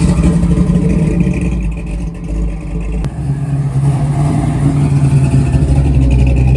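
A car engine running loudly with a steady low rumble, settling to a lower, deeper note about three seconds in.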